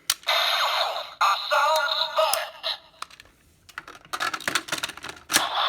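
Kamen Rider Zero-One toy sound effects playing from the DX Assault Wolf Progrise Key: an electronic jingle and announcer voice through a tinny speaker, heard as the key is activated. A short pause about three seconds in is followed by several sharp plastic clicks.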